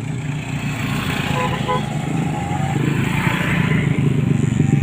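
A 130cc drag-bike motorcycle engine running steadily, slowly growing louder toward the end.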